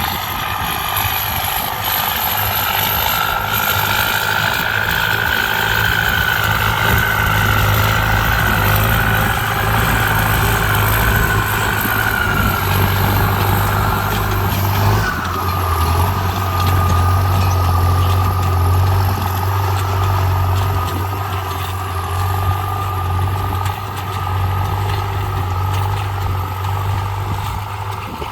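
Tractor with a Kubota ZT155 single-cylinder diesel engine running steadily, with a brief break in its sound about halfway through, after which its low hum is stronger.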